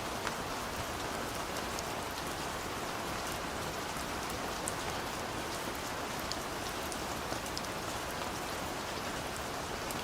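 Steady rain falling: an even hiss with scattered sharp taps of individual drops striking nearby surfaces.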